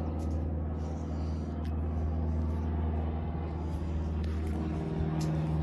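Steady low engine rumble of a motor vehicle running, with a hum that grows stronger near the end.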